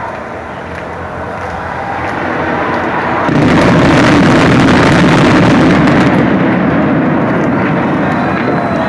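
Fireworks going off: about three seconds in, a dense barrage of bursts and crackles begins. It is loudest for a few seconds, then slowly eases off.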